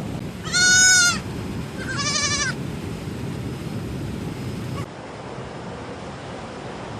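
Baby goats bleating twice in quick succession. The first call is a loud, high bleat, and the second is shorter and quavering. A steady hiss of background noise runs underneath.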